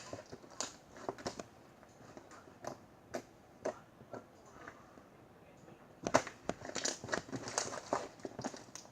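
Cupcake slime being squeezed and pulled by hand, giving irregular crackles and pops as air pockets burst. The pops are sparse at first and come thick and fast from about two-thirds of the way in.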